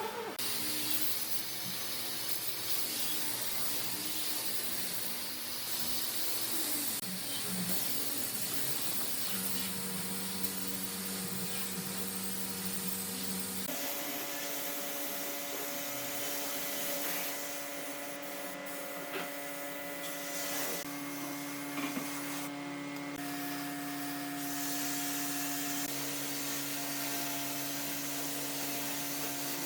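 Workshop power tool running steadily with a hum and a high hiss; the hum shifts to a different pitch abruptly about halfway through.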